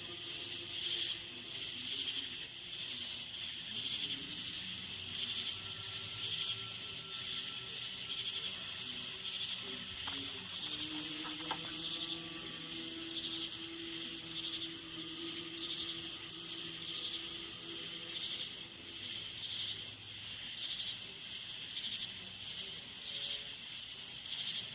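Outdoor insect chorus, steady high chirring with a pulsing a couple of times a second. Faint low droning tones sound beneath it, one sliding slightly upward about halfway through.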